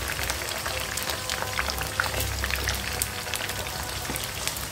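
Eggplant pieces frying in hot oil in a pan: a steady sizzle dotted with many small crackling pops.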